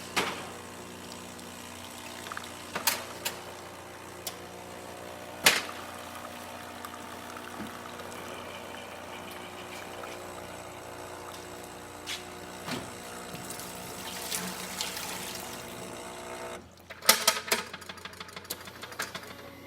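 Quick Mill Monza espresso machine's pump running with a steady hum while pulling a shot of espresso, with a few sharp clicks along the way. Near the end the pump cuts off, followed by a quick run of clicks and clatter.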